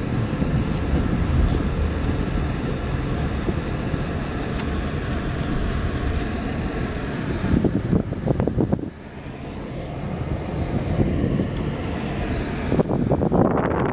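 Car driving: steady engine and road rumble with wind noise on the microphone. It drops briefly about nine seconds in, then builds again.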